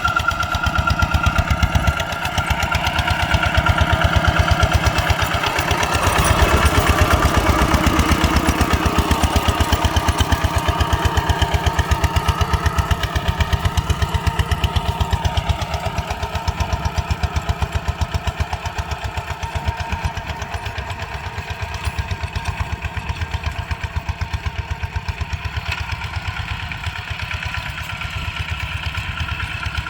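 Single-cylinder diesel engine of a ZT 155 small tractor chugging with an even, rapid firing beat; it grows louder about six seconds in, then eases off gradually.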